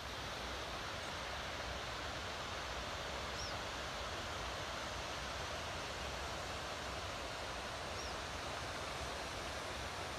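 Steady rush of falling water from a waterfall, an even hiss that does not change, with two faint high chirps about three and eight seconds in.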